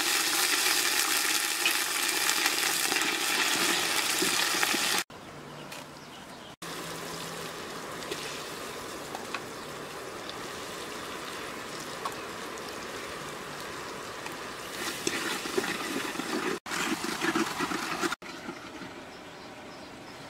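Duck meat sizzling as it fries in oil in a black pot over a wood fire, loud for the first five seconds, then quieter after abrupt cuts, with uneven louder patches of sizzling and stirring near the end.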